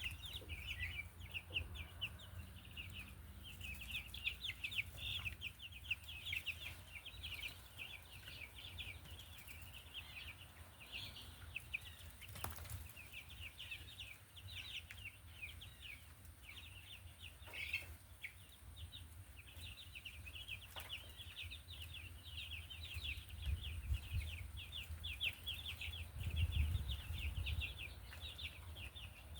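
A flock of 8-day-old meat chicks peeping continuously, many short high peeps overlapping, over a steady low rumble. A couple of sharp clicks stand out, about twelve and eighteen seconds in.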